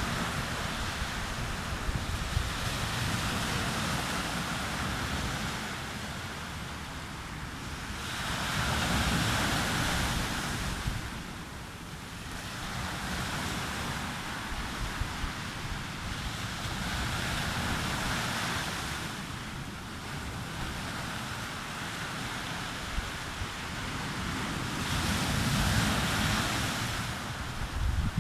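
Sea waves breaking on a beach, the surf swelling and receding about every eight seconds, with wind buffeting the microphone.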